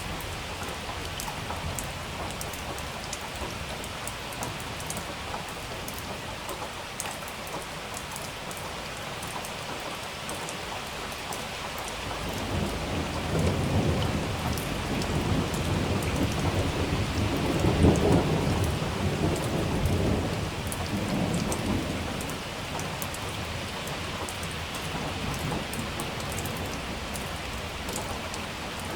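Steady rain falling, with sharp drop ticks. About twelve seconds in, a long roll of thunder builds, peaks in the middle and rumbles away over about ten seconds.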